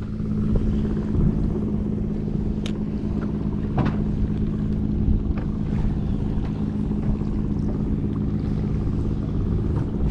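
A motor running at a steady, unchanging low hum, with wind rumbling on the microphone and a couple of sharp clicks.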